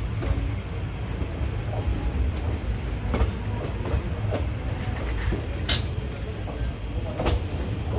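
Passenger train coaches running along the track, heard from an open coach doorway: a steady rolling rumble with a few irregular sharp clicks of the wheels passing over rail joints.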